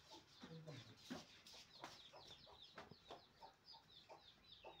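Faint, quick high chirping of birds, several chirps a second, with a few scattered faint clicks.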